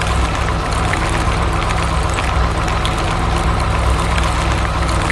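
Road roller's heavy engine running steadily: a low rumble with many small ticks scattered over it.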